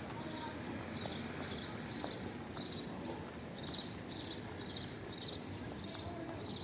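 Insects chirping steadily, short high chirps repeating about twice a second, over a low background murmur.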